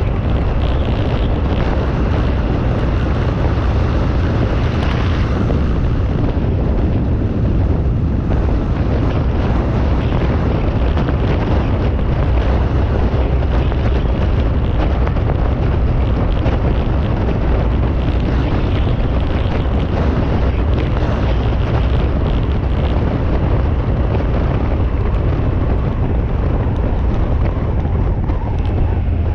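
Loud, steady wind noise buffeting the microphone over a low engine rumble, as from a moving vehicle.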